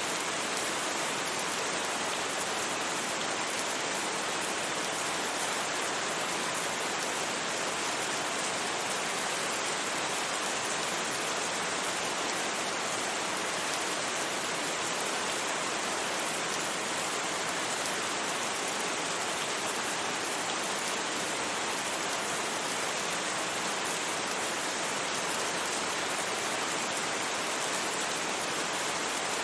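Steady, even rain, a continuous hiss without thunder.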